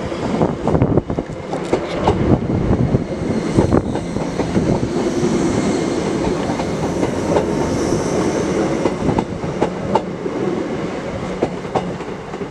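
Class 319 electric multiple unit running past close by, with a steady rumble of wheels on rail and repeated sharp knocks from the wheels.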